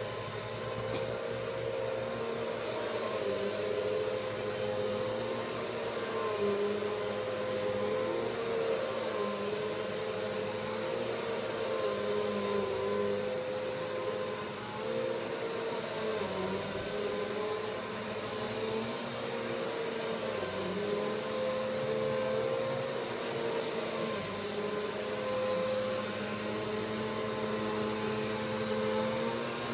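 Vacuum cleaner running steadily, its motor whine shifting slightly in pitch now and then over an even rush of air.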